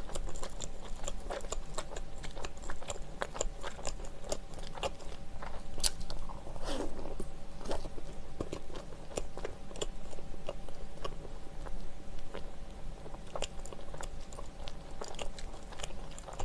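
Close-miked chewing and mouth sounds of a person eating soft black bread with a buttery sweet potato filling: a run of small wet clicks and smacks.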